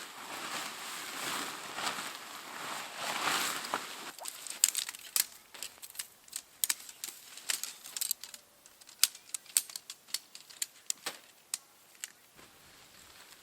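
Rustling for about four seconds, then a run of sharp, irregular crackles and snaps that grow sparser near the end: dry material being crumpled and handled close up.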